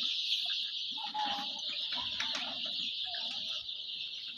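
A flock of two-week-old chickens in a poultry house, a steady chorus of peeping with scattered short clucks.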